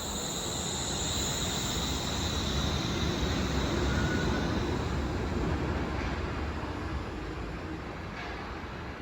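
Wuppertal Schwebebahn suspension railway train running, a steady rumble with a high whine that fades away over the first few seconds.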